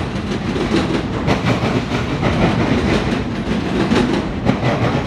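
A CSX freight train of autorack cars rolling past: a loud steady rumble of steel wheels on rail, with a run of clacks as the wheels cross rail joints.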